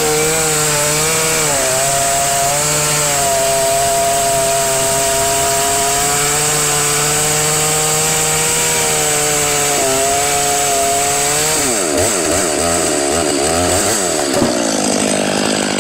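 Chainsaw running at full throttle, crosscutting through a big pine log, its pitch dipping slightly under load. About twelve seconds in, the engine revs rapidly up and down before settling again.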